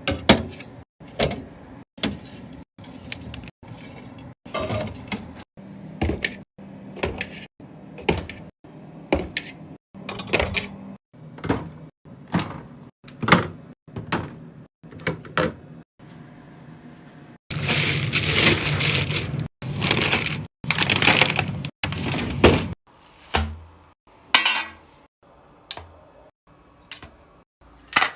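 Containers and food items being set down and arranged in a refrigerator: a run of clicks, knocks and clinks in short, choppy clips. About two thirds of the way through comes a longer stretch of steady rustling noise lasting some five seconds.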